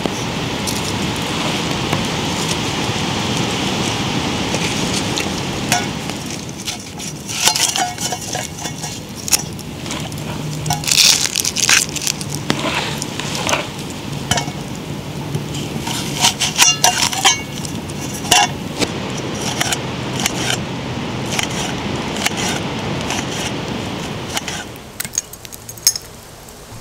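Wood fire burning: a steady hiss, then from about six seconds in a run of sharp crackles and clicks that thin out and drop in level near the end.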